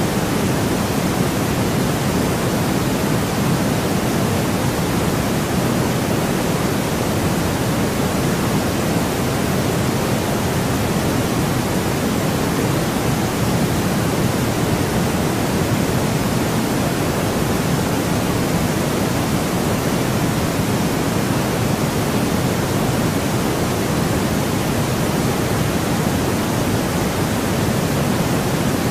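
Steady sleep white noise: an unchanging, even rushing hiss, fuller in the low and middle range than at the top, with no breaks or events.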